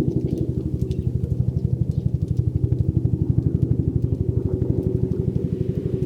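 An engine running steadily at idle, a low, even, rapid pulsing of about ten beats a second.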